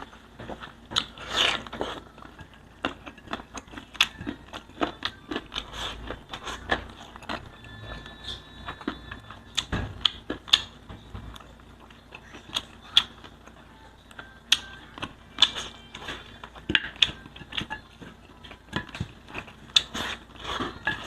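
Close-miked eating of spicy pork liempo: chewing and mouth sounds, a quick irregular run of sharp clicks and crunches, several a second.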